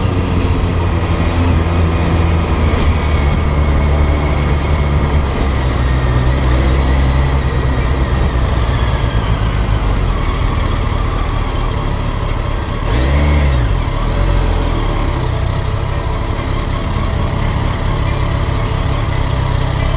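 BMW motorcycle engine running steadily while riding in traffic, amid the noise of surrounding vehicles; about two-thirds of the way through, the engine pitch briefly rises and falls as in a quick rev.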